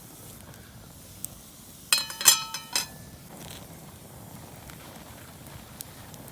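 Three or four ringing metal clinks in quick succession about two seconds in, over the faint crackle of a campfire.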